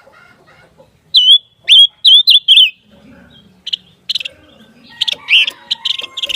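A songbird singing: a run of five loud, clear whistled notes, each with a quick hook in pitch, then after a short pause a faster series of short chirps.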